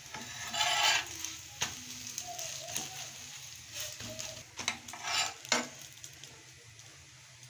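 Egg-and-milk paratha frying on a flat tawa, a steady sizzle with sharp clicks and scrapes of metal tongs on the pan as it is flipped. The sizzle surges about half a second in and again around five seconds, then dies down near the end.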